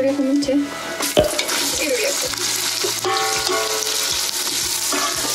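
Hot ghee and oil sizzling in an aluminium pressure cooker, stirred with a wooden spatula, as sliced onions fry in it. About a second in there is a sharp knock, and after it the sizzle is louder and steady.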